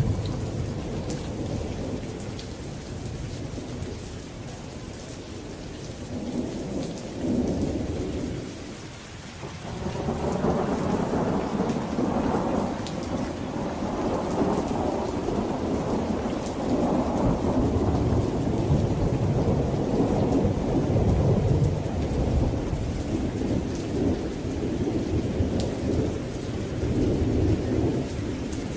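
Thunderstorm: steady rain with long rolling thunder. The rumble eases briefly about a third of the way in, then swells again and rolls on to the end.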